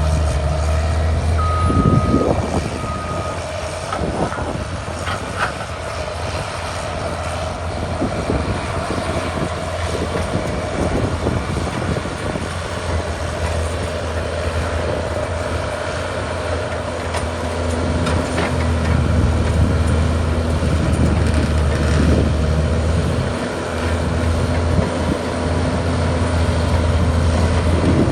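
Cat D6R2 bulldozer's diesel engine running steadily, with clanks and knocks from the machine working. Its backup alarm beeps twice about two seconds in. The engine grows louder in the second half.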